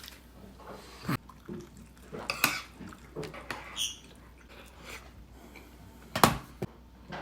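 Scattered clinks and knocks of dishes and cutlery, a few separate sharp strikes, the loudest about six seconds in.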